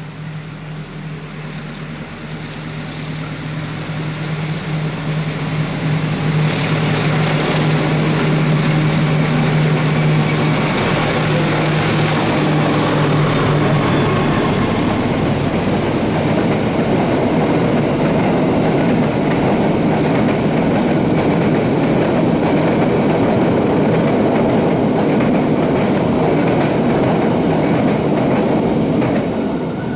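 Diesel-hauled passenger train crossing a railway bridge: the locomotive's engine drone grows louder and passes in the first half, then the carriages' wheels rumble and clatter steadily over the rails. The sound cuts off sharply near the end.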